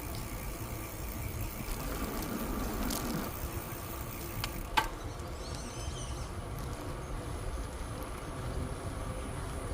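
Steady low rumble of wind and tyre noise while riding a bicycle on a trail, with one sharp click about halfway through. A thin, high insect buzz starts about halfway and continues.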